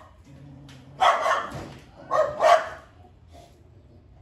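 A dog barking: a short bark about a second in, then a double bark about two seconds in.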